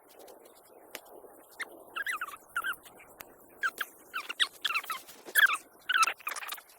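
An animal's short, high chirping calls, repeated in quick clusters from about two seconds in, over faint outdoor background noise with a few light clicks.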